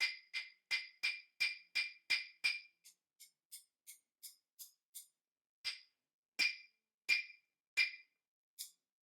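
Chopsticks tapped together in a rhythm: eight quick sharp clicks, about three a second, then after a run of fainter ticks, four louder, slower taps.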